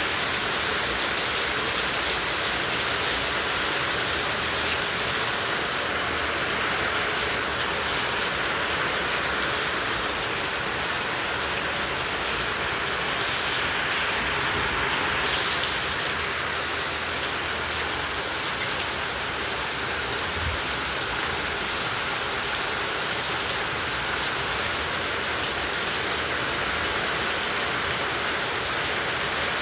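Heavy tropical rain falling steadily: a dense, even hiss of downpour. About halfway through, the high end of the hiss briefly drops out for a couple of seconds.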